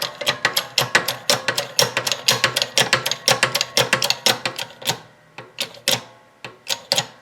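Rapid, irregular metallic clicking, several clicks a second, from a press being worked to push the kingpin out of a VW link-and-king front beam; the clicks thin out with short pauses near the end as the pin comes loose.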